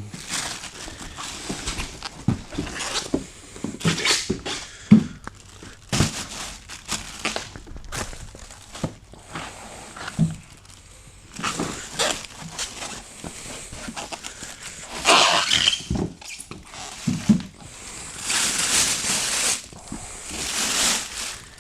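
Irregular rustling, scraping and knocks of a newly delivered welder being unpacked and handled, with louder stretches of rustling about two thirds of the way through and near the end.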